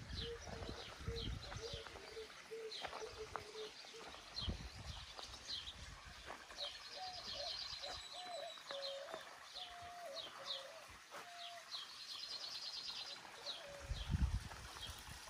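Small birds chirping all through, with two fast high trills around the middle, and a lower call repeated in short notes, like a dove cooing. A few low thumps come with them, the loudest near the end.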